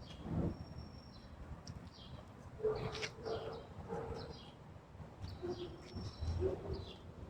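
Birds chirping: short falling chirps repeating throughout, with a few short lower calls about three and six seconds in.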